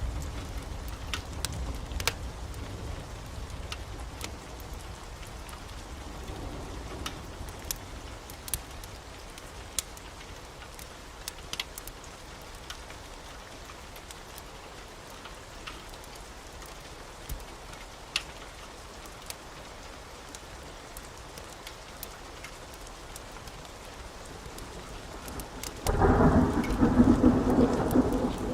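Steady heavy rain, with scattered sharp ticks over it and a low thunder rumble dying away in the first few seconds. Near the end a loud thunderclap breaks in suddenly and keeps rumbling.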